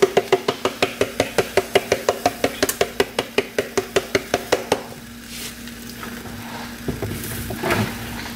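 A seasoning shaker shaken over a pot of green beans: fast, even rattling taps, about six a second, that stop about five seconds in. A few light clatters of a utensil against the pot follow.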